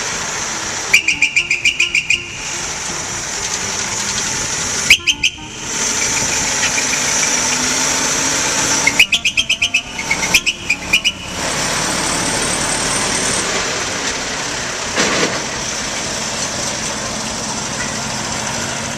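The horn of a 1922 vintage truck sounded in four short, rapidly pulsing blasts over the truck's four-cylinder engine running steadily.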